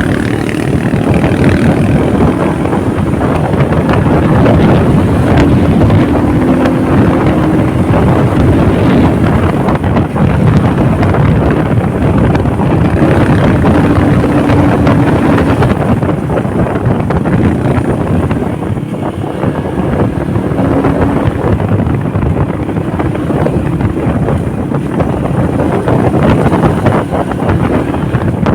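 Wind buffeting the microphone on a moving motorcycle, over the engine's steady running note.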